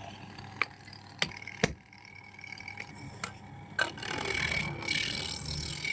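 A few sharp wooden clicks and knocks, then about four seconds in a steady scraping hiss of a tool cutting wood on a spinning lathe, with a faint steady whine.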